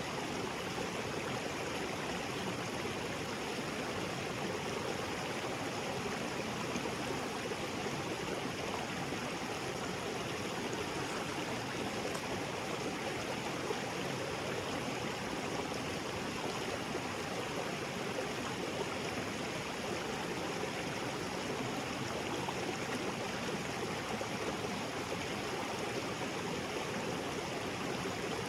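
Small waterfall spilling into a rocky jungle creek: a steady rush of falling and flowing water.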